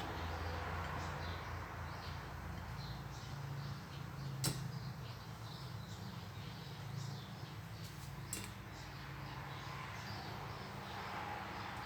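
Birds chirping faintly over a low steady hum, with two sharp clicks, about four and eight seconds in.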